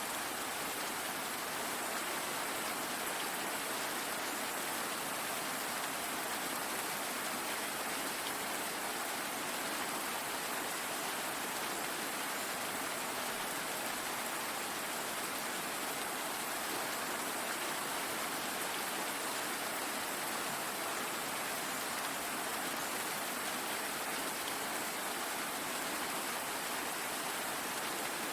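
Steady rain falling, an even hiss of drops with no breaks or changes in strength.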